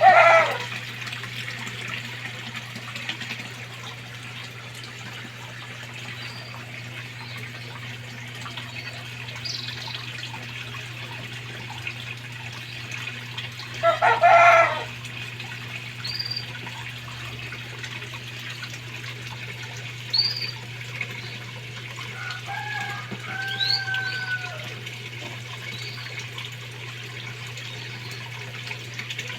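Water running steadily in a koi pond over a constant low hum from the pond pump, with a caged canary's short high chirps scattered throughout. Two louder calls of about a second each sound at the very start and about fourteen seconds in.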